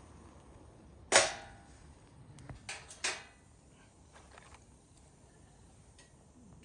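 One sharp, loud knock about a second in, followed by a few lighter clicks and knocks a second or two later.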